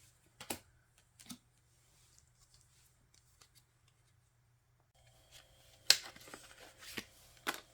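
Photocards and album papers being handled: a few sharp card clicks and taps, spaced out, with three louder ones near the end. A faint steady hum comes in about five seconds in.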